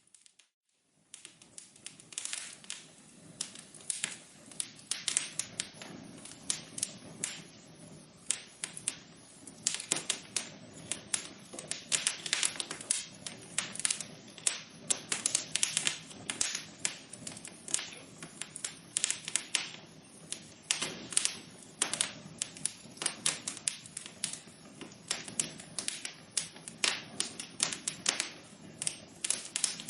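Wood fire in a fireplace crackling, with dense, irregular pops and snaps over a low steady rush of the flames. The sound drops out briefly at the very start and comes back about a second in.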